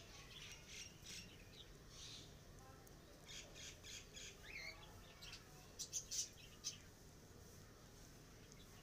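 Near silence with faint bird chirps and squawks: a scatter of short high calls, one rising, and a few slightly louder ones about six seconds in.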